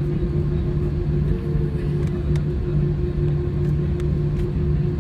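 Airbus A320 cabin noise: a steady engine drone with a constant hum and a low throb that swells and fades at an even beat.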